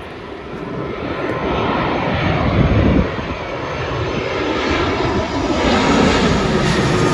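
Jet engines of a large twin-engine airliner, a Sri Lankan Airlines Airbus A330-300, as it comes in. A deep, steady rumble with hiss that grows louder over the first few seconds and stays loud.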